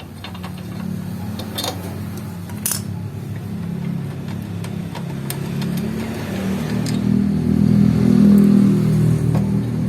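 A motor vehicle's engine running, getting louder over the last few seconds. There are a couple of light metal clinks early on as loose bracket bolts are taken out.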